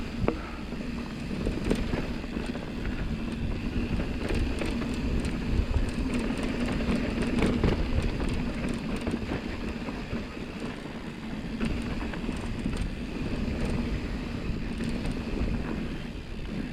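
Mountain bike rolling down a dusty, rocky dirt trail: a steady rumble of tyres and wind on the microphone, with scattered rattles and clicks throughout.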